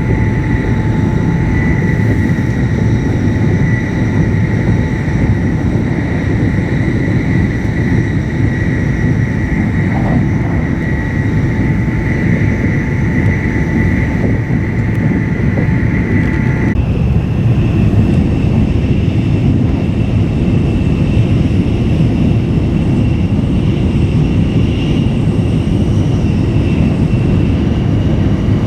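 A train in motion, heard as a loud, steady running rumble with a thin high whine that jumps up in pitch about 17 seconds in.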